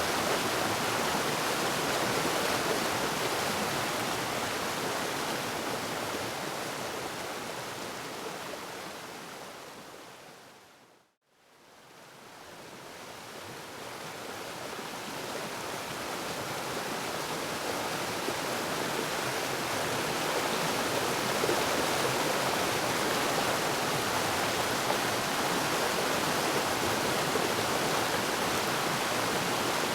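Waterfall rushing steadily. About eleven seconds in it fades out to brief silence, then swells back to the same steady rush over the next several seconds.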